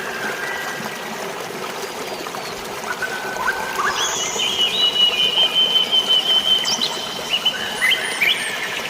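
Birds whistling and chirping over a steady wash of flowing water. A long, wavering whistle holds for about three seconds around the middle, with shorter notes before and after it.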